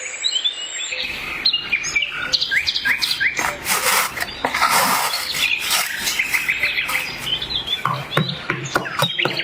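Birds chirping and singing in many short, quick calls, with scattered sharp clicks among them.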